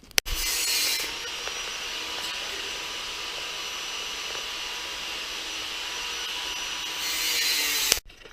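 A small motor-driven machine running with a steady whir and hiss, switched on with a click just after the start and cut off with a click about eight seconds in.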